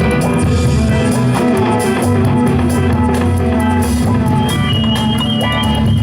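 Live band playing an instrumental passage: electric guitar and bass over drums, with no vocals.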